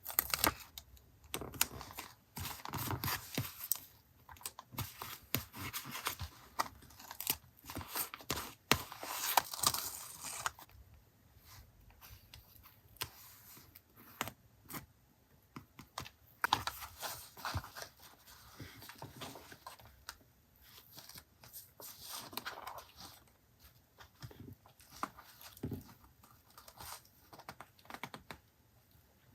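Paper being handled and torn, with rustling and small sharp clicks and taps. The rustling is busiest in the first ten seconds and sparser after.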